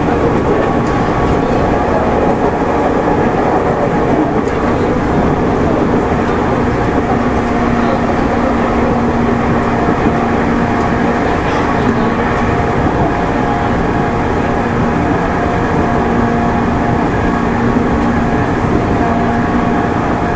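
Running noise inside a JR East 205 series 600-subseries electric train on the move between stations: a steady rumble of wheels on rail with an even hum held at a constant pitch and a few faint clicks.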